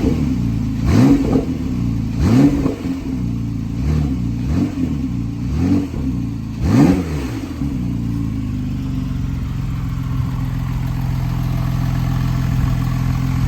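Porsche 911 Carrera (991.2) 3.0-litre twin-turbo flat-six revved in a series of quick throttle blips through its sports exhaust, each rising and falling, the last about seven seconds in. It then settles to a steady idle.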